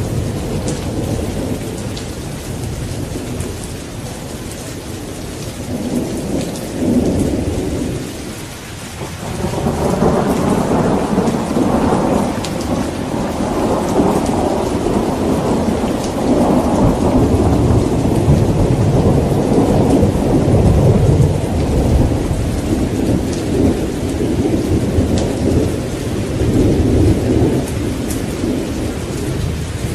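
Steady rain falling, with a long low roll of thunder. The thunder dies down about a quarter of the way in, then swells again and rumbles on through most of the rest.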